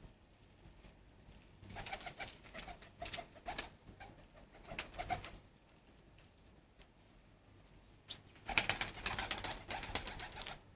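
Domestic mutarid pigeons flapping and fluttering their wings in two flurries of rapid clapping, the first about two seconds in and a louder one near the end, with faint cooing.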